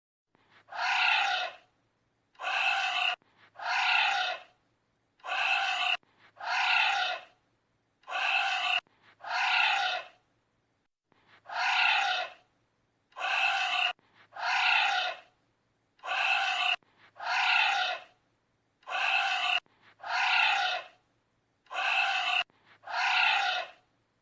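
Animal calls, labelled a giant anteater's, repeated about sixteen times with short gaps. Each is a short pitched cry whose low note slides down at the end, and several stop abruptly.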